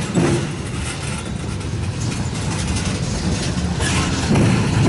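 Railroad tank cars of a freight train rolling slowly past, steel wheels rumbling on the rails, with a few louder wheel clacks near the end.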